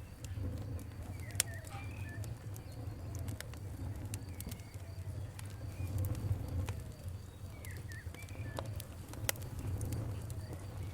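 Campfire crackling, with sharp pops a few times a second over a low steady rumble, and birds calling in short repeated notes behind it.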